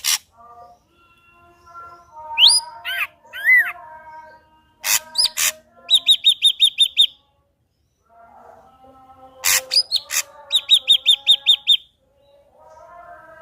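Ashy drongo singing: harsh rasping calls and rising whistled notes, with two quick runs of about eight even clicking notes.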